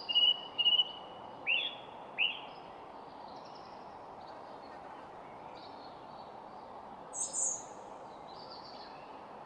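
Songbirds chirping over a steady background hiss. A quick run of repeated high notes opens, then two short down-slurred calls about two seconds in, fainter scattered notes, and a brief higher call about seven seconds in.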